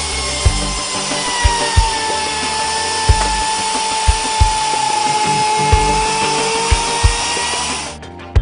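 Bosch GKF 550 trimmer router running and cutting wood. Its high whine drops slightly in pitch under the cut and comes back up, then cuts out suddenly near the end.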